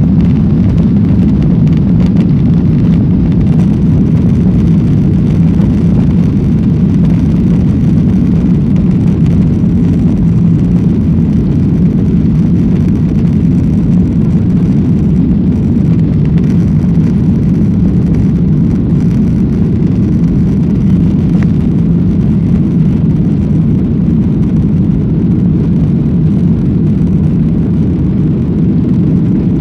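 Boeing 737-800's CFM56 jet engines at takeoff power: a loud, steady, low roar that holds level without rising or falling.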